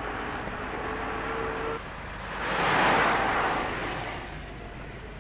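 Massey Ferguson 600 series tractor's Perkins diesel engine running steadily. The sound breaks off abruptly near two seconds in, then the tractor passes by, swelling to a peak about three seconds in and fading away.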